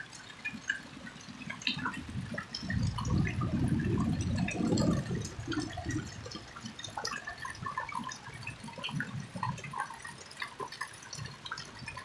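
Rain falling, with scattered drips splashing close by; a low rumble swells and fades a few seconds in.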